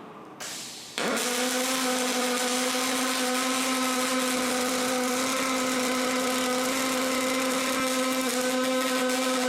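Electric power tool starting abruptly about a second in and running at one steady pitch under a loud hiss.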